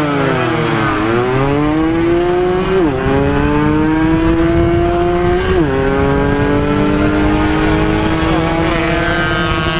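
Yamaha RX-King 135cc two-stroke single with an aftermarket side-exit exhaust, ridden hard at full throttle. The engine note dips and picks up again in the first second, then climbs steadily, dropping sharply at two upshifts about three and about six seconds in.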